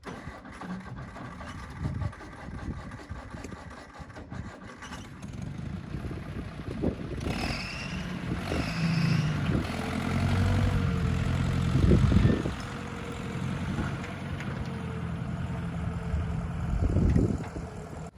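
A motor vehicle's engine running at low speed, its pitch shifting as it works, with a few knocks; two short high squeaks a little before halfway.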